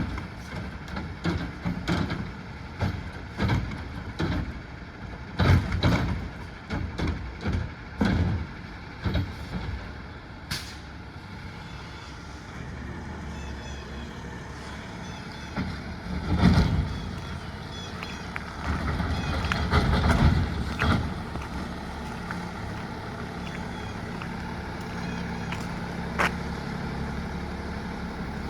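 Garbage truck at work: its engine runs under a series of bangs and clanks through the first ten seconds, with a short hiss just after. Near the middle the engine runs louder for a couple of seconds, then settles to a steady idle.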